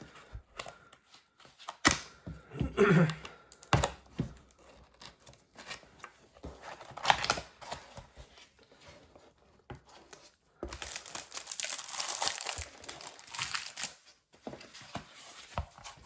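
Packaging of a battery replacement kit being opened and handled: plastic and paper crinkling and tearing, with a few sharp clicks. A longer burst of crinkling and tearing comes about eleven seconds in and lasts about three seconds.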